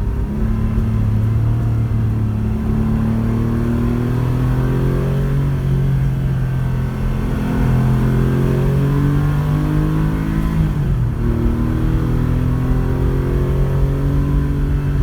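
Porsche 911 rally car's flat-six engine pulling under load. The note climbs slowly, drops sharply with an upshift about ten and a half seconds in, then climbs again.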